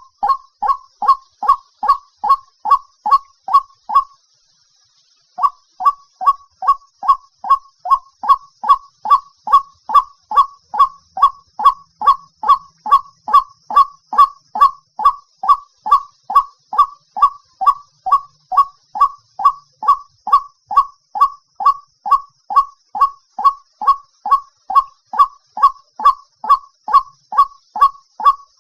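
White-breasted waterhen giving its loud, monotonous repeated 'kwak' call, about three notes a second, with a break of about a second and a half some four seconds in. This is a recorded decoy call used to lure waterhens.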